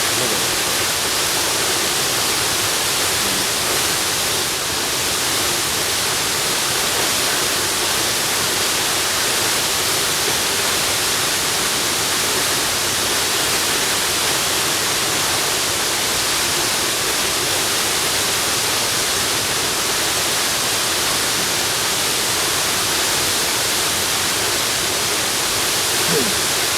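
Waterfall rushing as a constant, even wash of noise, heavier in the high range than the low, with no breaks or changes.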